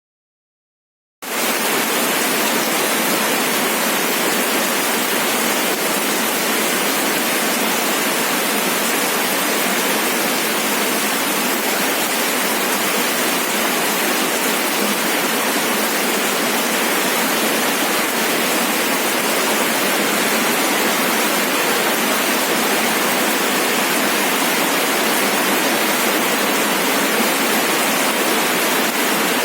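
Steady rain falling, an even hiss that starts abruptly about a second in and holds unchanged.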